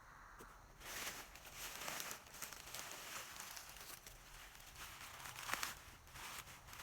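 Irregular rustling and crackling of dry plant material, starting about a second in, with a sharp snap about five and a half seconds in.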